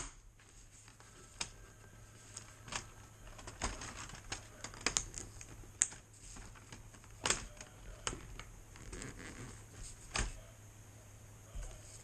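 Irregular light clicks and taps, about one a second, as plastic HO model railroad track sections are handled and fitted.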